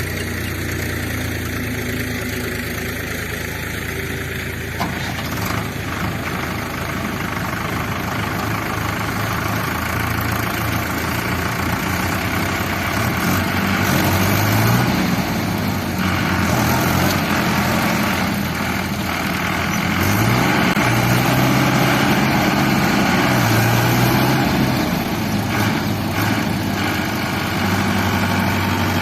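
Heavy diesel engine running steadily, then revving up several times in the second half, rising in pitch and getting louder with each rev.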